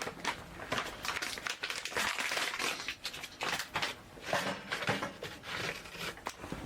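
Irregular crinkling and crackling, made of many small sharp clicks and short rustles.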